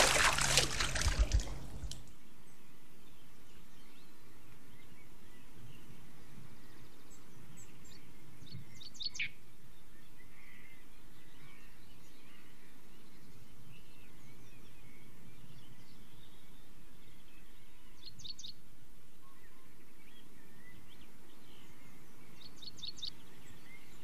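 Steady outdoor background hiss with a small bird chirping in quick high series three times, about a third of the way in, past the middle and near the end. A song's music cuts off in the first two seconds.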